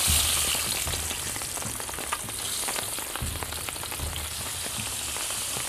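Chilies, shallots and garlic frying in hot oil: a dense sizzle with scattered crackles, loudest just as they go in and then settling to a steady fry.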